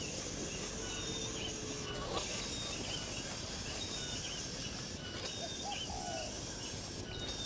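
Birds calling outdoors: short, high chirps repeating throughout, with a few lower, curved calls about six seconds in, over a steady hiss of insects or background noise.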